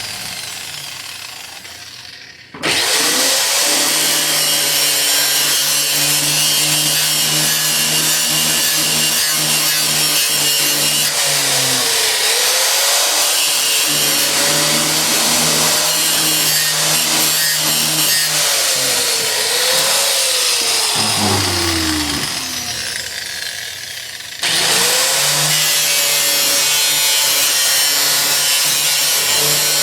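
Handheld electric grinder spinning up about two and a half seconds in and running hard, its whine dipping in pitch several times as it bites into the Jeep's sheet-metal floor. It winds down, then starts up again near the end.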